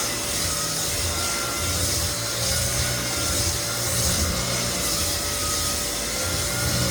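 Lagler Flip belt floor sander running steadily as it sands across cupped white oak flooring to level it, with a low rumble that swells and eases every second or so over a steady hiss.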